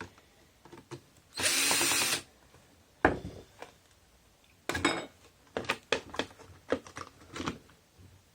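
A cordless power drill or driver runs in one short burst, under a second long, then a series of sharp clicks and knocks follows as tool parts are handled.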